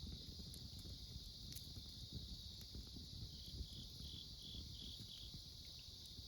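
Autumn crickets and other insects trilling steadily, with one closer insect giving a run of about seven short chirps midway. A wood campfire crackles softly underneath, with a few sharp pops.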